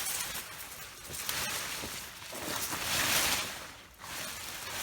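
Rustling and crackling of sweet potato vines and soil being pulled and handled, swelling to its loudest about three seconds in.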